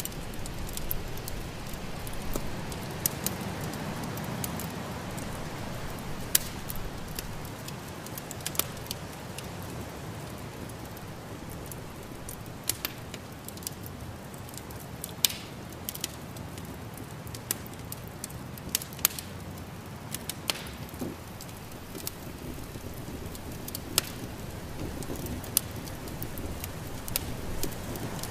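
Wood fire crackling in a fireplace, with irregular sharp pops and snaps over a steady low rush.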